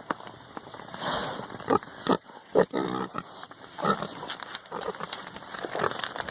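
Domestic pigs grunting: a string of short, irregular grunts, about one a second.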